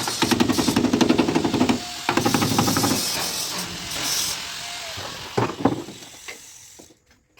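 Rapid, machine-fast hammering on car body sheet metal in two bursts, the first about two seconds long and the second about one second, followed by a few separate knocks before it goes quiet near the end.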